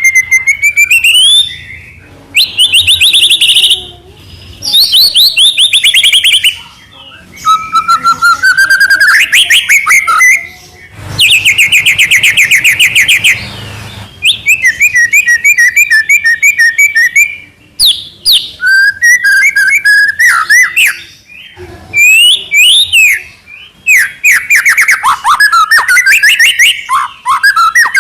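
White-rumped shama singing loudly: a long string of varied phrases made of rapid trills and whistled notes sliding up and down, each phrase lasting a second or two, with only brief pauses between them.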